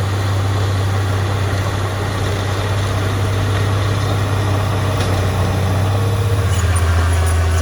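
Heavy diesel engine of earthmoving machinery running steadily; its low drone drops slightly in pitch about six and a half seconds in.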